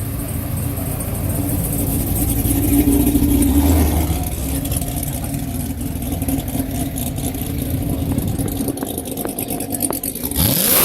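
Car engine idling with a steady low rumble that swells for a moment, then revved sharply near the end.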